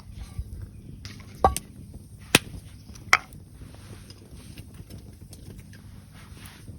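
Three sharp knocks a little under a second apart, over a steady low rumble.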